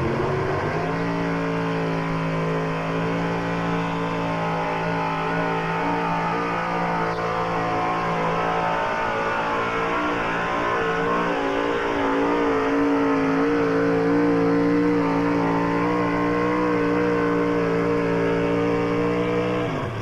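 Gas-powered pulling truck engine revving up in the first second, then held at high, steady rpm under load down the track. The pitch drops off sharply at the very end as the throttle is let off.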